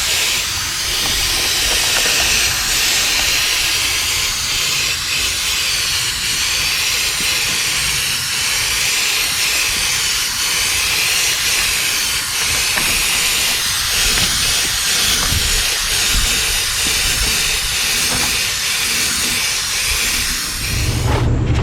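A steady, loud hiss, with a low rumble beneath it.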